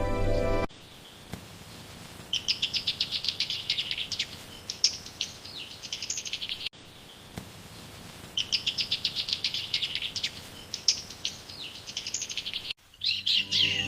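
A small songbird singing a fast trill of high notes, about seven or eight a second, ending in a few separate chirps, heard twice a few seconds apart. Soft music plays at the start and comes back near the end.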